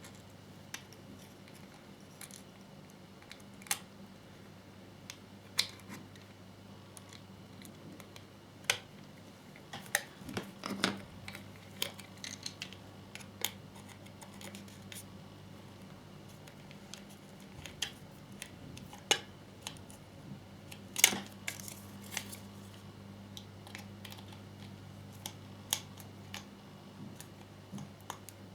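Scattered light clicks and taps of a small screwdriver and plastic model parts being handled as tiny screws are driven in, over a low steady hum.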